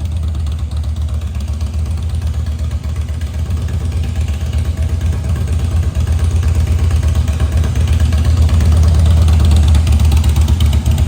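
2008 Harley-Davidson Softail Custom's Twin Cam 96B V-twin idling through an aftermarket Cobra exhaust, with a steady, low, pulsing beat that grows slightly louder in the second half.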